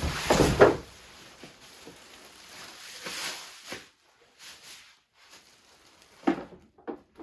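Cardboard box and packaging being handled around the refrigerator/freezer: a loud rustling scrape in the first second, softer scuffing for a few seconds, then two short knocks near the end.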